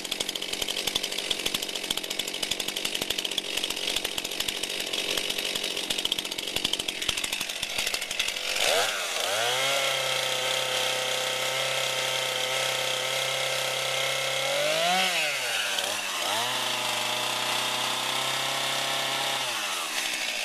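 New Stihl two-stroke chainsaw idling with a fast, dense patter, then revved up about nine seconds in and held at high speed with no load, dropping briefly and climbing again around fifteen seconds, before falling back to idle near the end.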